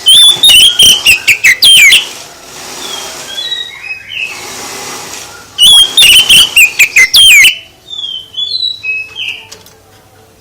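Songbird singing in two loud, fast bursts of varied whistles and sharp rising and falling notes, with softer scattered chirps between and after them.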